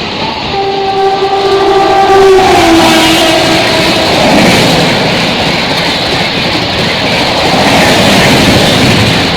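Train horn sounding, its pitch dropping about two and a half seconds in as the train passes. It gives way about four seconds in to the loud, steady rush of the train going by at speed.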